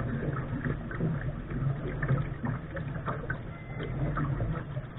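Water splashing and slapping irregularly against the hull of a Lark sailing dinghy as it moves, over a steady low rumble.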